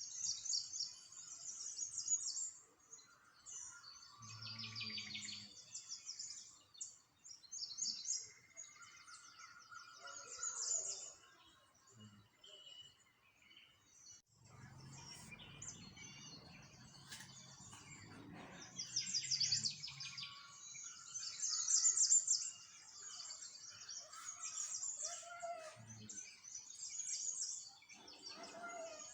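Small songbirds chirping and trilling, with rapid runs of high notes overlapping throughout. A faint low hum comes and goes beneath them, longest a little past the middle.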